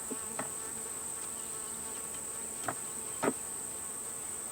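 Honeybees buzzing steadily around an open hive, over a constant high-pitched whine, with a few light knocks, the loudest about three seconds in.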